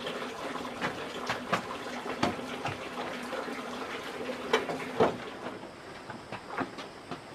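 Water running and splashing, with irregular knocks and clatters, the loudest about four and a half and five seconds in.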